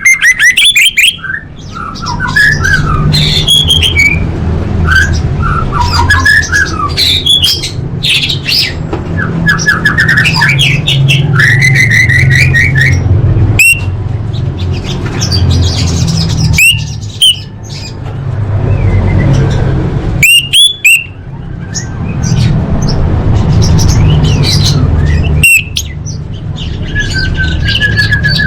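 Female orange-headed thrush calling: a run of short squeaky chattering notes with a few sharp, high rising calls, over a steady low hum.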